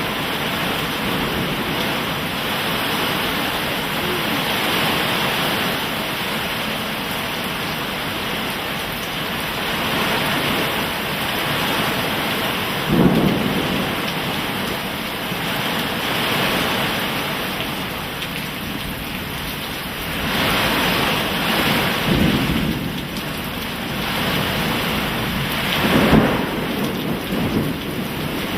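Heavy thunderstorm downpour with hail, a steady hiss of rain and hail hitting the ground. A few brief louder low thumps stand out, three times through.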